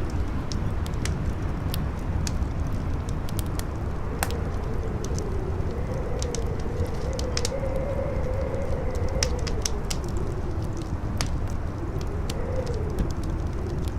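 Campfire crackling with scattered sharp pops, over a low wind rumble and a howling wind whose pitch slowly rises and falls.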